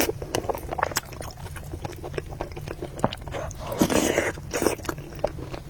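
Close-miked eating sounds: a person chewing and biting a mouthful of noodles and meatballs, with many small wet mouth clicks and a longer noisy swell about four seconds in.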